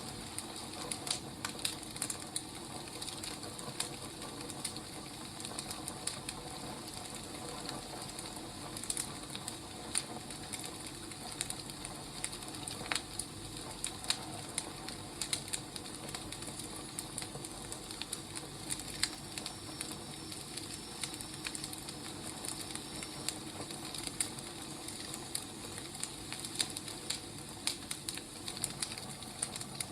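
Wood fire burning, with irregular sharp pops and crackles over a steady hiss.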